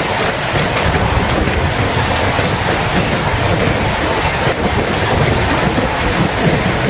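Steady rain: a dense, even hiss of drops with a constant low rumble underneath.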